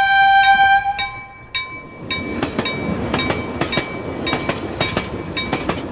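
A bright chime rings and fades during the first second or so. From about two seconds in, a train runs by with a heavy rumble and irregular sharp clicks of its wheels on the rails.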